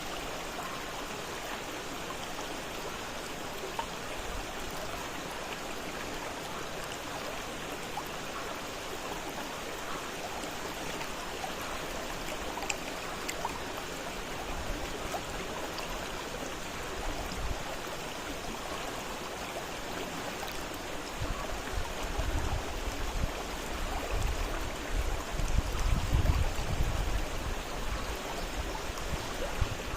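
Fast-flowing river rushing steadily, with no speech. In the last third a low, uneven rumble comes and goes underneath the water.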